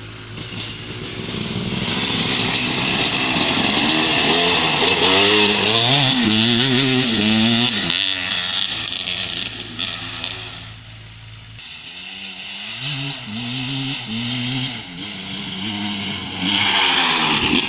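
Kawasaki KX motocross bike engine revving hard through the gears, its pitch climbing and dropping again and again. It eases off about ten seconds in, then picks up for a second run of rising revs.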